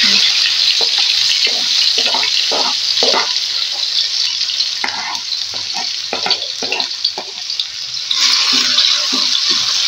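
Chopped shallots, garlic and bird's-eye chilies sizzling in hot oil in a wok, with a spatula scraping and knocking as the spices are pushed in and stirred. The sizzle eases off in the middle and comes back strongly near the end.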